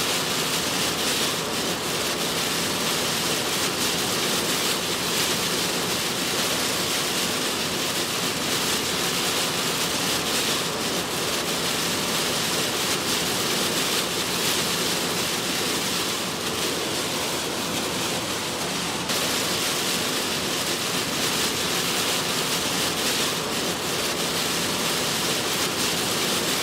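Heavy storm rain pouring onto a moving car: a dense, steady rush of noise, with a brief dip that steps sharply back up about nineteen seconds in.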